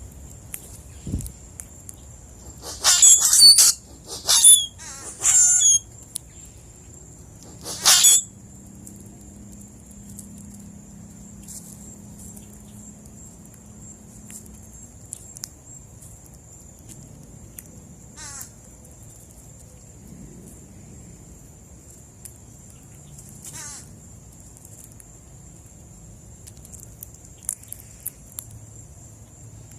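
Wild birds at a seed feed calling: a burst of three loud, harsh calls about three seconds in, another about eight seconds in, and a few fainter ones later. A steady high-pitched whine runs underneath.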